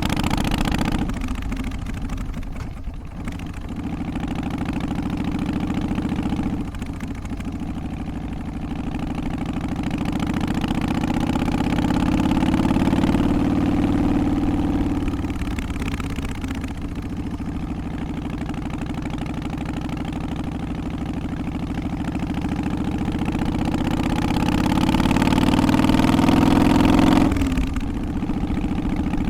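Harley-Davidson FXST Softail's Twin Cam 88 V-twin running under way, its pitch climbing as it pulls and dropping sharply at each gear change, several times over. The longest pulls come in the middle and toward the end, and the revs fall off suddenly near the end.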